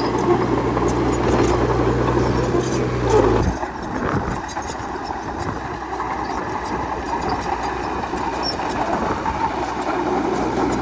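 Bulldozer's diesel engine running with a steady low drone that drops away abruptly about three and a half seconds in, leaving a noisier mechanical rumble with scattered clicks and squeaks.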